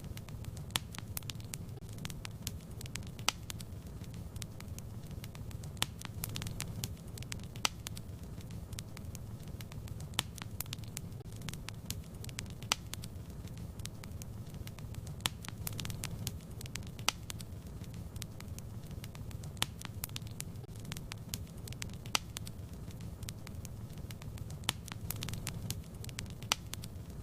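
Wood fire crackling in a fireplace: sharp, irregular pops and snaps, several a second, over a steady low rush of the flames.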